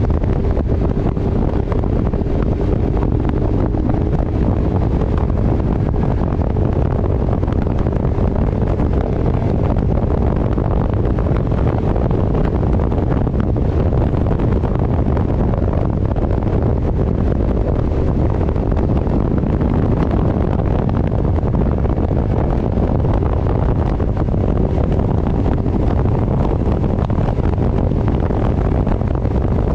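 Wind buffeting hard on the microphone of a motorcycle riding at steady speed, with the engine's drone underneath.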